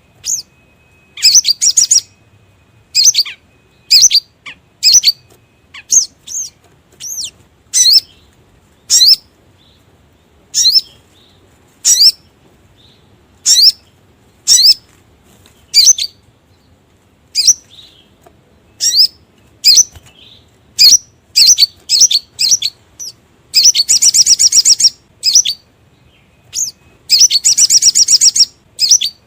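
Sogon (sogok ontong, the brown-throated sunbird) calling in a lure recording: loud, sharp, high chirps in an irregular series, with two longer rapid trills near the end.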